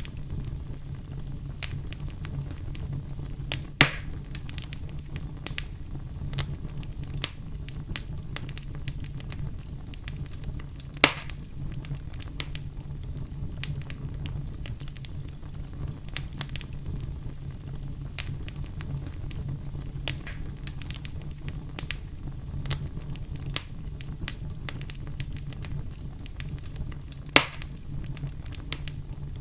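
Wood fire burning in a fireplace: a steady low rumble of the flames with scattered crackles and three louder pops, about four, eleven and twenty-seven seconds in.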